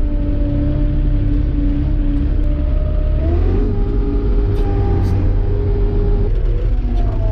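Claas Dominator 85 combine harvester's engine running steadily, with a low rumble and whining tones. The pitch rises about halfway through as it speeds up and eases back down near the end.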